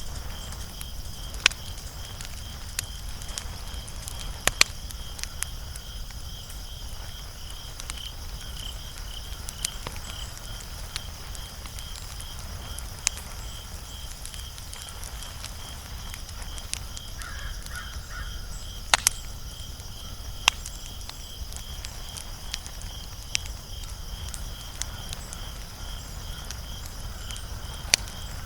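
Wood fire crackling: a low steady rumble of flame broken by scattered sharp pops, the loudest a double crack about two-thirds of the way through. A steady pulsing high chirp runs underneath.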